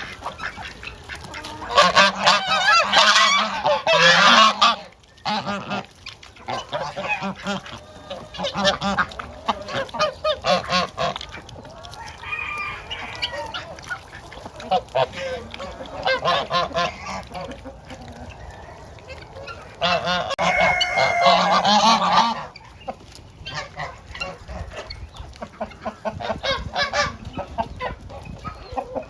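A flock of geese honking, with loud bouts of calling about two seconds in and again around twenty seconds in, and scattered shorter honks between.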